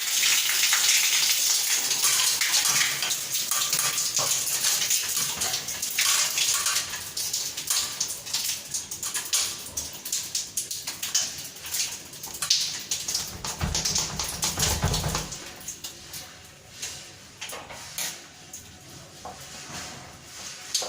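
Water gushing and splashing with many small clinks and rattles mixed in, loud at first and quieter for the last few seconds.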